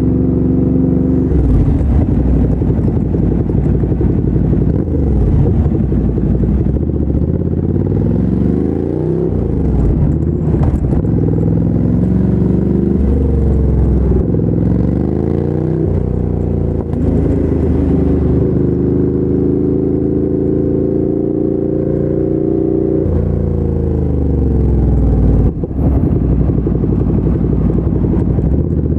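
2017 Ducati Monster 797's air-cooled L-twin engine through a LeoVince LV-10 exhaust under way. The pitch rises and falls several times as the rider accelerates and shifts, holds steady for a few seconds past the middle, then drops away, with a brief break about three-quarters of the way through. Wind noise rushes over it throughout.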